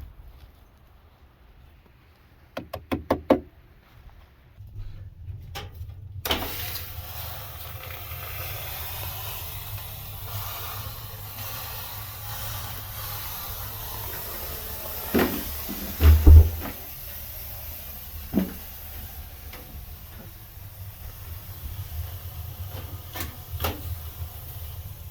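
Water thrown onto hot sauna stones: a sudden steam hiss that carries on, slowly easing, with a few knocks partway through.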